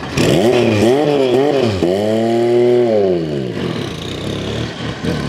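A high-performance engine being revved hard: three quick throttle blips, then one longer rev that rises and falls back.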